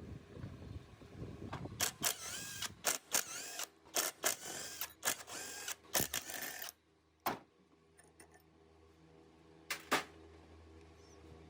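Hand work with tools on metal: a quick series of short scraping and clattering sounds, some with a brief squeal, busiest in the first half, followed by a quiet low hum and two sharp clicks near the end.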